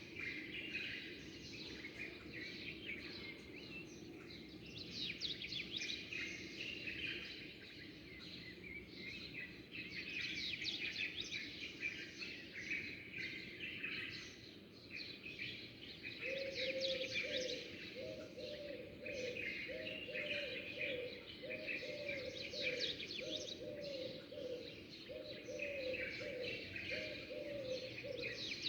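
Many small birds chirping and trilling together in a steady dawn-chorus mix. From about halfway through, a lower call repeats roughly once a second under the chirping.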